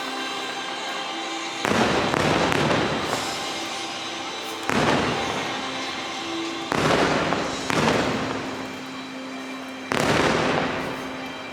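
Fireworks bursting five times, each a sudden loud bang that fades over a second or two, with the show's music playing faintly underneath.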